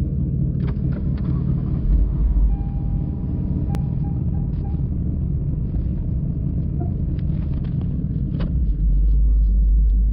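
Lexus IS500's 5-litre V8 idling through the factory catback exhaust, a low, steady rumble that is very quiet. The low rumble grows louder for a moment about two seconds in and again near the end.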